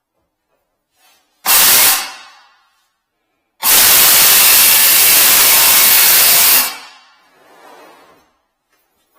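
A loud rushing hiss, twice: a short burst about a second and a half in that fades over about a second, then a steady hiss lasting about three seconds that cuts off.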